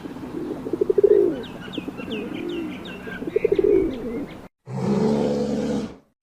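Pigeon cooing in repeated low pulsed phrases, with a small bird chirping several times over it in the middle. About four and a half seconds in the sound cuts off, and a different low, pitched call follows for about a second and a half.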